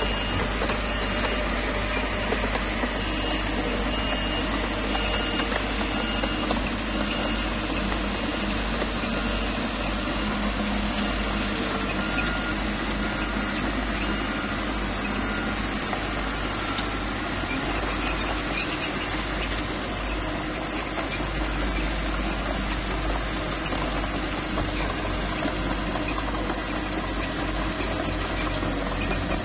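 Small bulldozer engine running steadily as it works.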